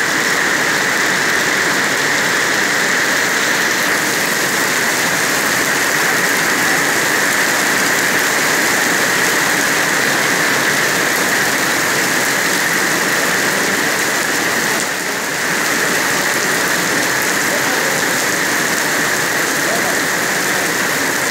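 Heavy rain pouring down onto a paved street and stone-tiled pavement: a loud, steady hiss of drops splashing on wet ground.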